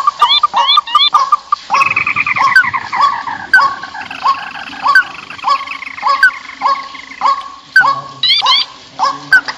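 Bird lure recording of rice-field birds, several calling at once: a rising call note repeats about every half-second, with quick groups of higher, rising chirps near the start and again near the end.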